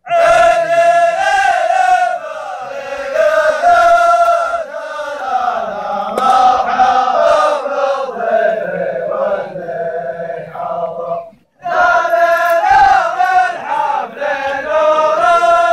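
A group of men chanting a zamil, the tribal welcome chant, in unison with long held notes. The chant breaks off briefly about eleven seconds in, then starts again.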